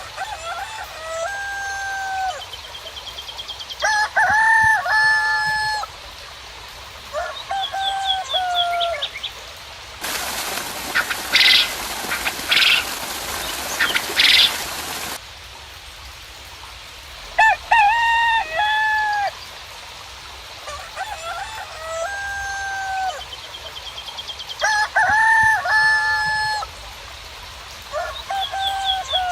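Roosters crowing again and again, about seven crows spread through, with small birds chirping in short high trills. About ten seconds in, a hissing, rushing noise cuts in for about five seconds and stops abruptly.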